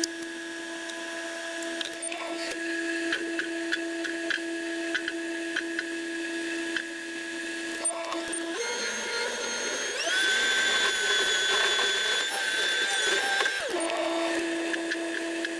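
Tracked skid steer loader running with a steady whine and light clicking, revving to a higher pitch about ten seconds in, holding for a few seconds, then dropping back to its earlier steady note.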